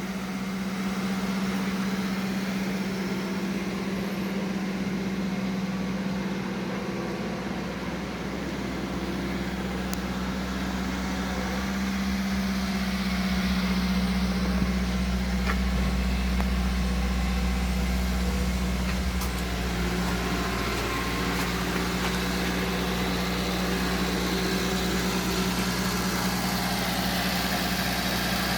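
2008 Subaru Sambar kei truck's small four-cylinder engine running steadily, with an even low hum that holds its pitch throughout.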